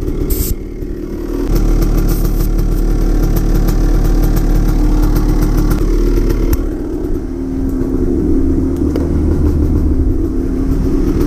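Two-stroke single-cylinder engine of a 1998 Suzuki RM250 dirt bike running steadily at idle. The sound dips briefly just before the start and again around seven seconds in.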